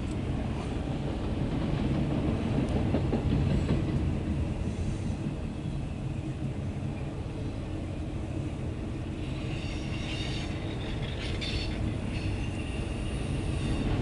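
Loaded autorack freight cars rolling past with a steady low rumble. From about two-thirds of the way in, high wheel squeal comes and goes over it.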